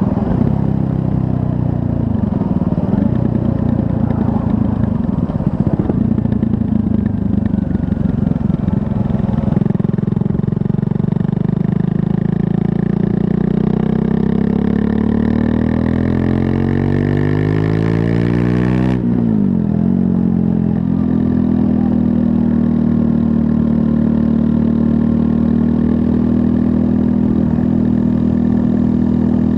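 Triumph Scrambler 400 X's 398 cc single-cylinder engine under way. It runs rough and uneven for about the first nine seconds, then its pitch climbs steadily for about ten seconds as the revs rise, falls sharply about two-thirds of the way through, and settles to a steady, lower running note.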